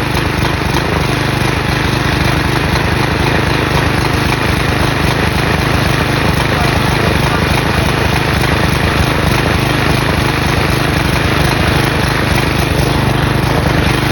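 Briggs & Stratton flathead engine of a push mower running steadily and loudly, burning off used motor oil that was fed into its carburetor intake.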